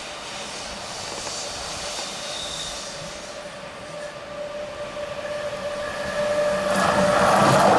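Rhaetian Railway Ge 4/4 III electric locomotive hauling passenger coaches approaches on the curve, with a steady high whine, its running growing much louder near the end as it draws level.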